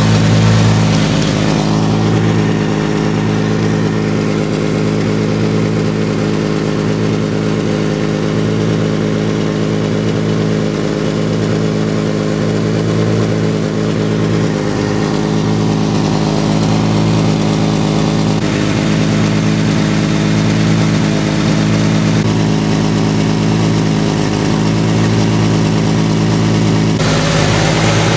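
1991 Jeep Wrangler YJ engine idling steadily, heard from underneath the vehicle.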